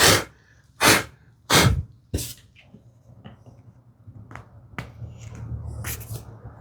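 Masking tape pulled off its roll in four short rasping strips in the first couple of seconds, followed by quieter handling with a few light taps.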